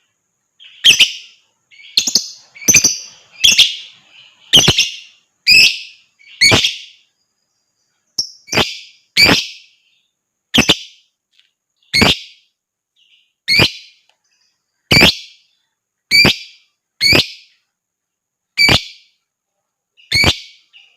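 Lovebird giving loud, short, shrill calls one after another, about one a second, with a short break about seven seconds in.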